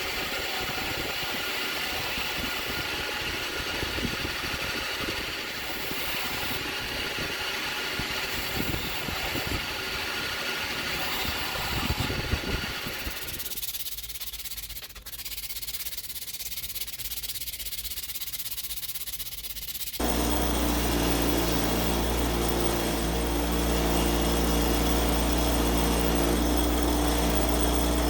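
Shop work on a knife blade: steady abrasive scraping and rubbing with quick uneven strokes, then high hissing. About two-thirds of the way through, a steady electric motor hum cuts in suddenly and keeps running evenly.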